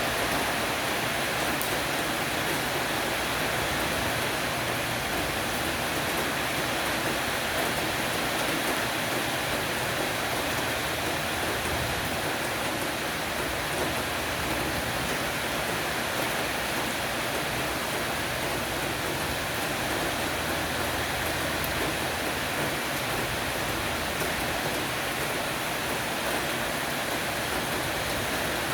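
Heavy rain shower pattering steadily on an eave roof, a dense even hiss of drops.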